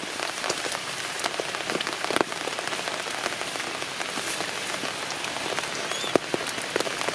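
Steady rain falling, with many individual drops ticking on nearby surfaces and a couple of louder drop hits about two seconds in and again near the six-second mark.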